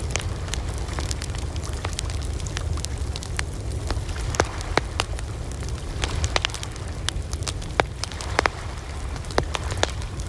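Campfire burning: wood crackling and popping in sharp, irregular snaps over a steady low rumble of the flames.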